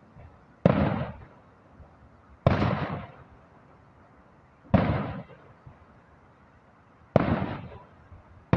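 Aerial fireworks shells bursting at a distance: four booms about two seconds apart, each trailing off in a fading rumble, with a fifth at the very end.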